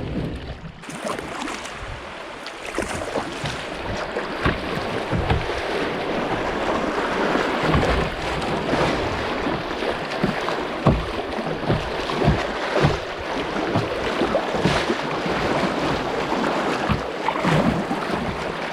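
Water splashing and rushing around a kayak being paddled on a river current, with wind buffeting the microphone in irregular low thumps.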